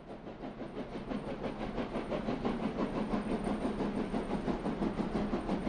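A train running, likely a sound effect: a fast, even, rhythmic chugging that fades in over the first second or so and then holds steady.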